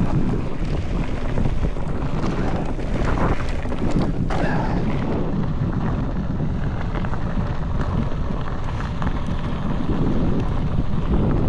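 Wind buffeting the microphone during a fast mountain-bike descent, with the tyres running over a rough dirt trail and many small knocks and rattles from the bike.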